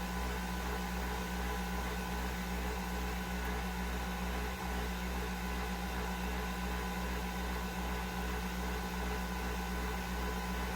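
Nespresso VertuoPlus capsule machine running a brew cycle: a steady whirring hum with a few fixed tones that does not change.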